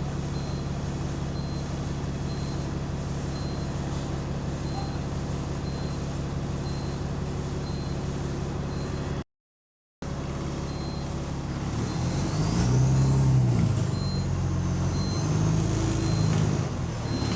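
Diesel engine of a London bus with an exhaust leak idling steadily, with a short high beep repeating about twice a second. After a break of about a second, the engine pulls harder and a high turbo whistle climbs and then holds.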